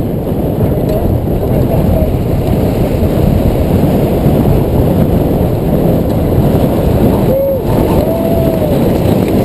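Strong wind buffeting the microphone, a loud, steady low rumble with no break, with a couple of short wavering tones near the end.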